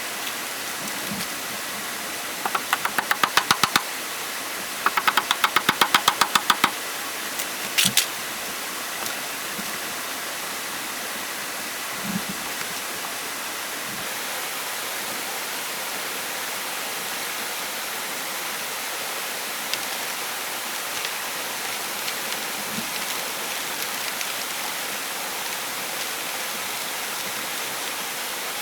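Runs of rapid knocking, about six sharp strikes a second, come in three bursts through the first seven seconds, with two last knocks near eight seconds. After that only a steady rushing hiss remains.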